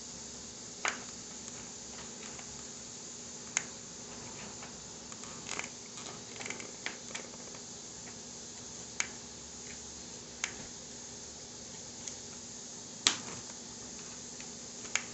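Knife tapping on a cutting board as shrimp are sliced: scattered sharp taps, one every second or two, over a steady low background hum.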